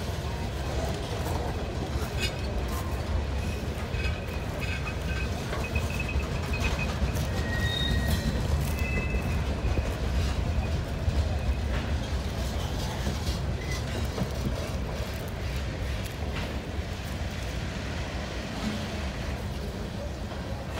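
Freight cars of a passing freight train (gondolas, boxcars and tank cars) rolling by on the rails: a steady low rumble of steel wheels with scattered clicks and knocks, and brief thin squeals from the wheels a few seconds in.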